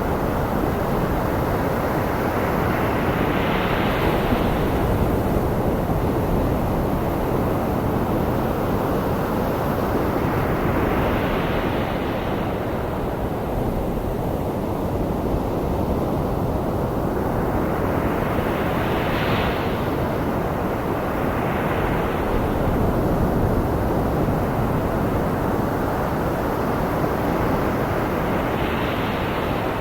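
Ocean surf blended with steady white noise: a constant hiss, with a wave rising and breaking about every seven or eight seconds.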